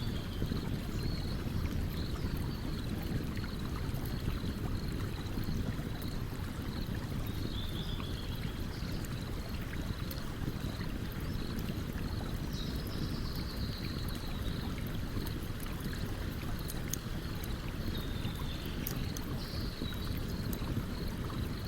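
A stream running steadily with a campfire crackling over it in faint, scattered sharp pops. A few short high chirps come now and then.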